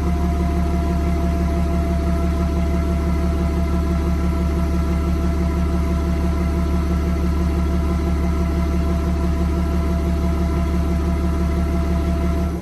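BMW 335d's twin-turbo M57 straight-six diesel idling steadily, with a steady turbo whistle riding over the diesel idle. The sound cuts off abruptly at the end.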